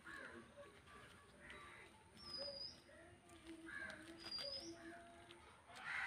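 Birds calling faintly: a short, high chirp that rises at its end, heard twice about two seconds apart, with lower calls in between.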